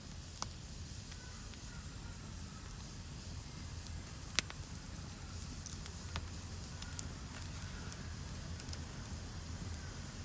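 Wood campfire burning: a low steady rumble with sparse sharp crackles and pops, the loudest about four seconds in.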